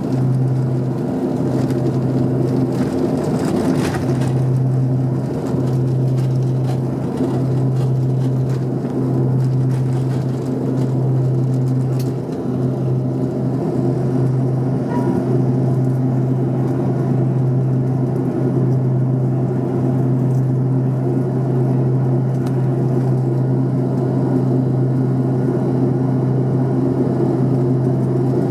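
Twin Honeywell TPE331 turboprop engines and propellers of a Jetstream 41, heard from inside the cabin. They make a steady, loud drone with a strong, even propeller hum.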